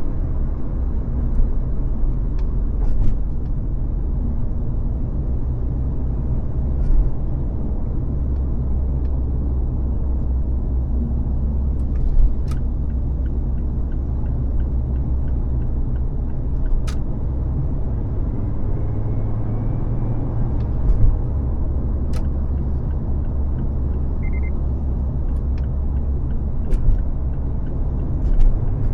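Car driving at freeway speed: a steady low rumble of tyre and engine noise, with a sharp click or knock every few seconds.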